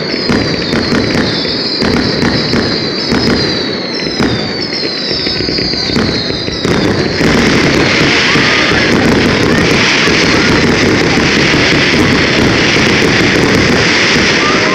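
Fireworks display: a quick run of bangs with repeated falling whistles for the first six seconds or so, then, from about seven seconds in, a dense, continuous crackling barrage.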